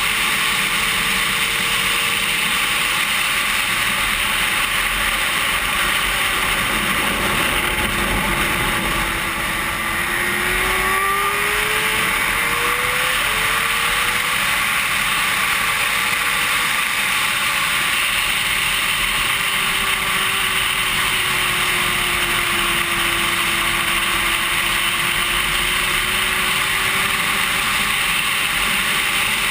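Racing sport-bike engine heard on-board under heavy wind rush, its pitch rising and falling with throttle and gear changes. It eases off briefly about nine seconds in, then climbs again.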